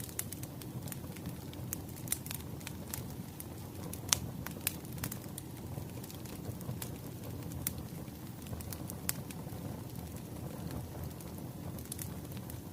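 Wood fire crackling: a steady low rush of flame with irregular small crackles and snaps, and one sharper pop about four seconds in.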